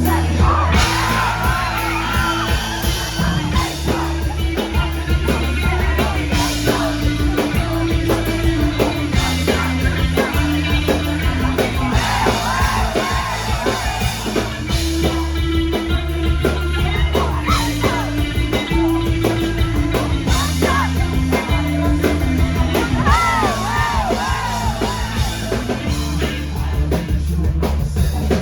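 Live rock band playing: a sung vocal line that wavers in pitch over a driving drum kit, bass and guitar.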